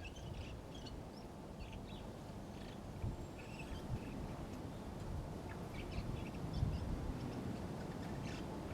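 Small birds chirping in short, irregular calls over a low, steady background rumble.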